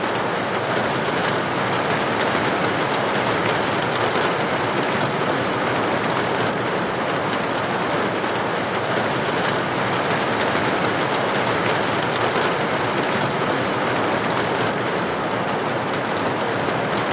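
Steady rain pattering on window glass, an even hiss with many fine drop impacts.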